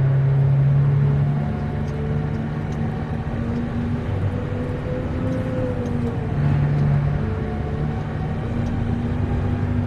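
Haul truck's diesel engine running under way, a steady drone whose pitch shifts a little a few times as the load changes.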